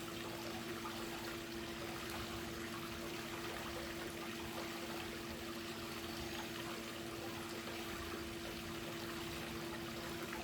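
Swimming pool water trickling and pouring steadily, with a steady low hum underneath.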